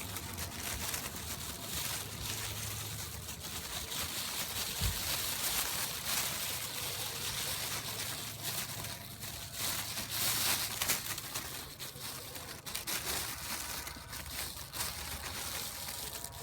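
Plastic bag crinkling and rustling in irregular bursts as it is handled and tied shut.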